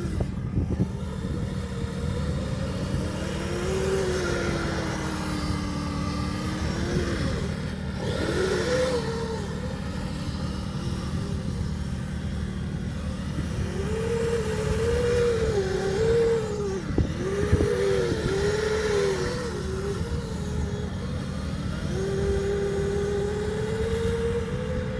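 Kyosho Blizzard RC tracked snow vehicle driving in sand: its electric motor and gear drive whine, the pitch rising and falling again and again with the throttle, over a steady low rumble.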